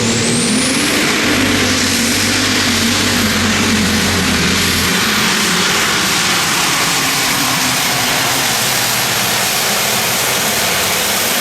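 Unlimited super stock pulling tractor's turbocharged diesel at full power during a pull. A high turbo whine climbs in the first second, holds high and steady over a loud, dense engine noise, and falls away near the end.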